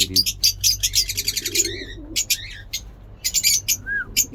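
Mixed aviary birds chirping in rapid, high, sharp calls and trills, with a pigeon cooing low about a second and a half in and again near the end.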